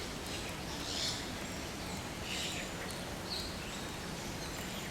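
Steady outdoor background noise with a few short, high bird calls, about one, two and a half and three and a half seconds in.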